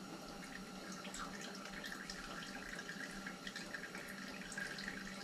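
Engine oil trickling and dripping out of the open oil filter housing of a Sherco 300 SEF four-stroke engine: a steady faint trickle with scattered small drips, leftover oil still draining after the filter was pulled.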